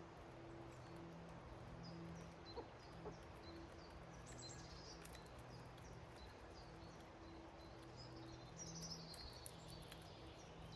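Faint chirps and calls of small garden songbirds, with two quick falling trills about four and eight and a half seconds in, over a faint on-and-off low hum.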